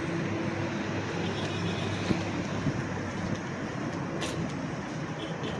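A motor vehicle's engine running steadily, with a few light clicks.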